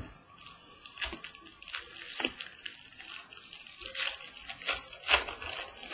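Trading cards and their packaging handled: irregular crinkles, rustles and small clicks, a few sharper ones about a second in, near the middle and past five seconds.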